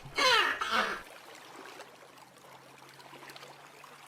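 A duck quacking, with one last loud call that ends about a second in, followed by faint background hiss with a steady low hum.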